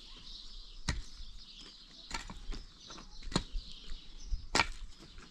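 Sharp strikes repeated about once every second and a bit, four in all, the last the loudest, over a faint steady high hiss.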